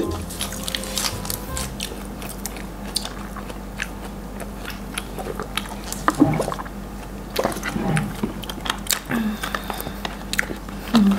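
A person chewing and biting food, with many short wet mouth clicks and a few soft crunches.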